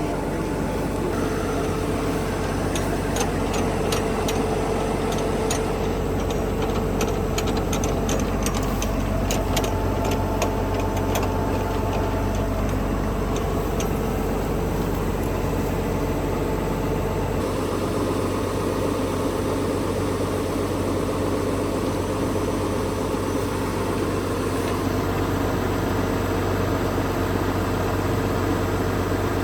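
Tractor engine idling steadily, with a run of light clicks from about three to fifteen seconds in.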